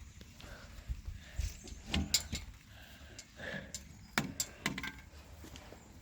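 Scattered knocks and light clinks from hand work on a pickup truck, with sharp ones about two seconds in and a quick run of them around four seconds in.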